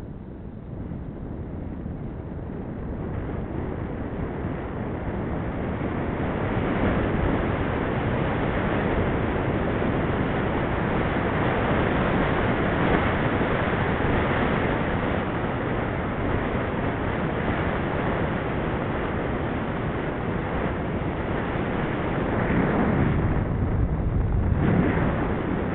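Wind rushing over the microphone of a camera riding on a moving bicycle. It grows louder over the first six or seven seconds, then holds steady.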